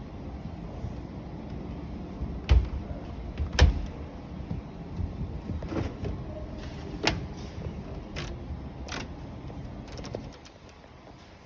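A series of sharp clunks and clicks from display washing machines' doors being handled, about six over ten seconds, the loudest two around two and a half and three and a half seconds in, over a steady low hum.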